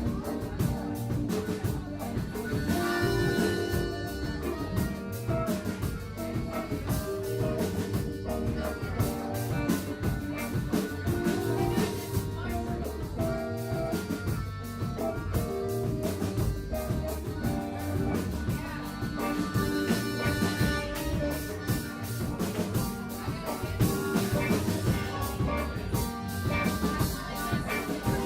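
A band playing music live, with a drum kit and guitar over sustained pitched notes.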